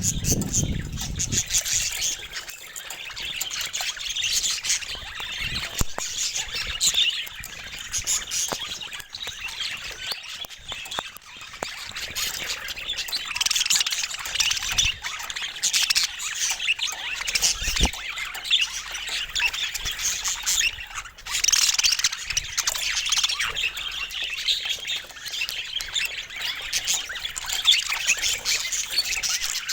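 Several budgerigars chirping and chattering continuously, in dense overlapping high calls and squawks.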